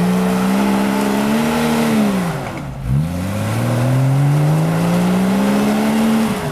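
Off-road 4x4's engine revving hard under load. Its pitch climbs, drops about two and a half seconds in, then climbs again in a second long pull before falling off near the end.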